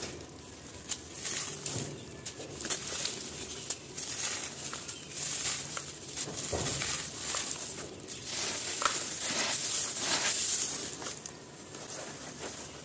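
Dry, gritty crumbly material being crushed and broken up by hand: a dense, irregular stream of crunches and crackles, busiest about halfway through.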